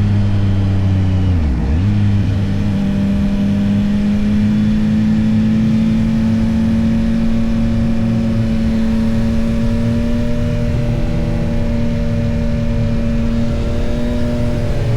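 Yamaha XSR900's 890 cc inline-three engine running while riding, with a quick dip and recovery in engine pitch about a second and a half in, then steady revs that rise slowly before dropping near the end.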